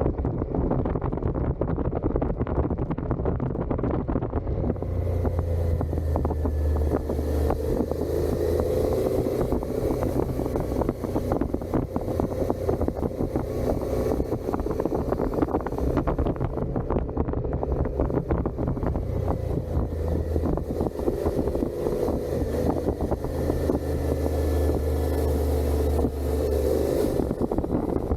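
Suzuki SV650 V-twin engine through its stock exhaust, running steadily while riding, heard under wind noise on the helmet or bike microphone that comes and goes in strength.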